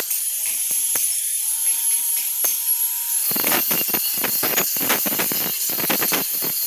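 Metalworking on an iron door: a steady high hiss at first, then irregular crackling from about three seconds in.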